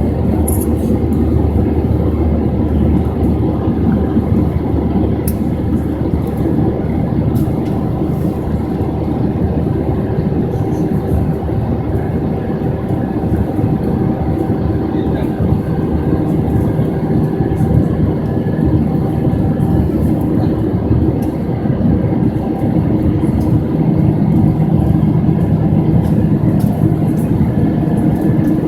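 Airbus A320 cabin noise: a loud, steady rumble of the engines and airflow heard from inside the passenger cabin, with a faint hum on top. It grows slightly louder near the end.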